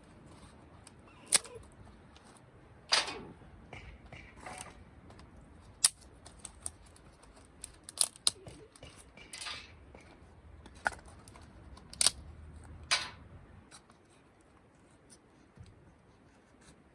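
A dozen or so sharp clicks and knocks at irregular intervals, a few with a short rattling tail, stopping about three seconds before the end.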